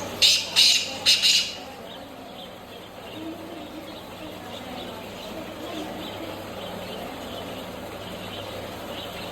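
Black francolin calling: a loud, harsh run of three grating notes in the first second and a half, the last one drawn out. Faint bird chirps and a steady low hum follow.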